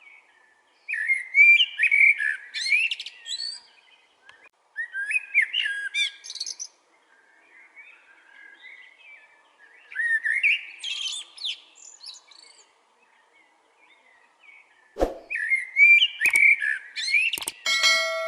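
Common blackbird singing: four separate fluting phrases with pauses between them, each ending in a high, squeaky twitter. A single sharp knock comes near the end.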